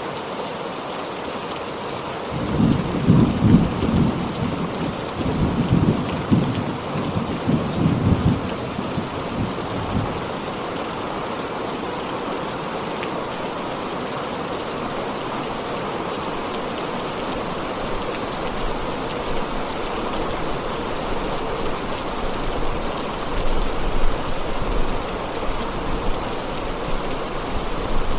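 Heavy rain falling steadily, with a rolling rumble of thunder from about two seconds in until about ten seconds, and a fainter rumble near the end.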